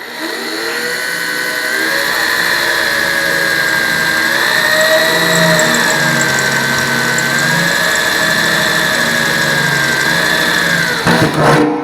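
Electric drill boring a hole through a steel barrel end with a slow-speed bit: a steady motor whine that wavers slightly in pitch under load, then winds down near the end with a brief clatter.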